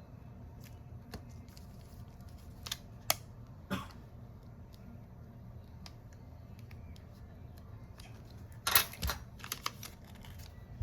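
Scattered light clicks and taps of small parts and tools being handled on a workbench, with a quick run of louder clicks about nine seconds in, over a low steady hum.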